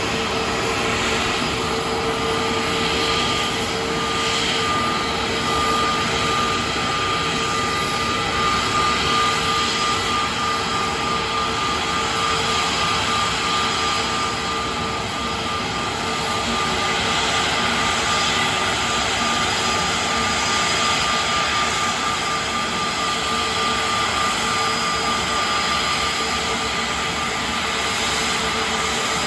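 Airbus A320neo's CFM LEAP-1A turbofan engines running steadily: a broad rush with a steady whine over it.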